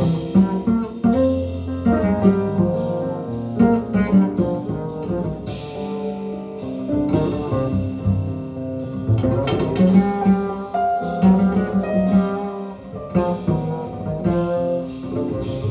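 Jazz recording with plucked double bass and guitar to the fore, many quick notes, played back through hi-fi loudspeakers and picked up in the listening room.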